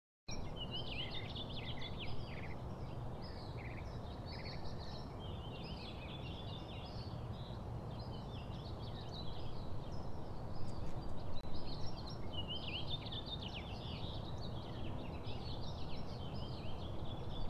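Songbirds chirping and twittering continuously in quick, overlapping phrases, over a steady low rumble.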